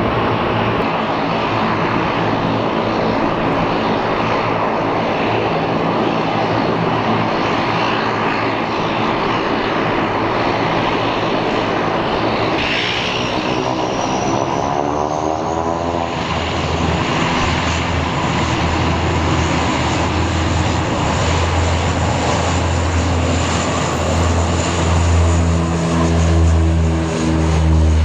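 ATR 72-201 twin turboprop's Pratt & Whitney Canada PW124B engines and propellers running for a takeoff on a wet runway: a steady drone with a rising whine about halfway through, and a deep propeller throb growing louder near the end.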